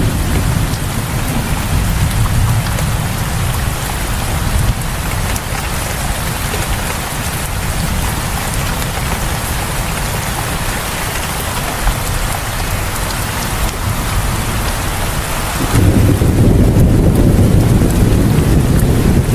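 Steady rain falling, an even hiss. About sixteen seconds in, the sound changes abruptly to a louder low rumble with less hiss.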